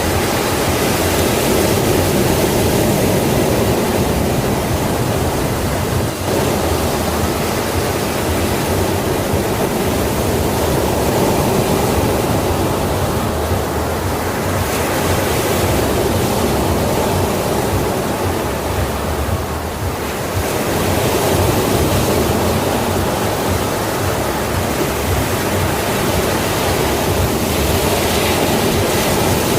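Sea waves breaking and washing ashore in a continuous surf, swelling and easing slowly, with short lulls about six seconds in and again around twenty seconds in.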